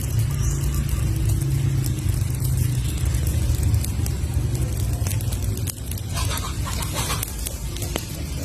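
Campfire burning: scattered sharp crackles and pops over a steady low rumble, with a denser flurry of crackling about six seconds in.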